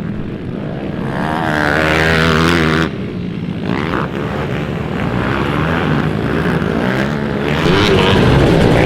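Pit bike engine at race pace, revving up, cutting off sharply about three seconds in, then pulling hard again.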